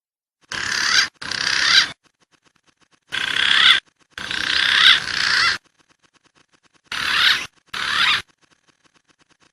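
Wild pigeon calls from a bird-lure recording: seven short, high, warbling bursts in quick pairs, each swelling and then cutting off sharply, with silent gaps between them.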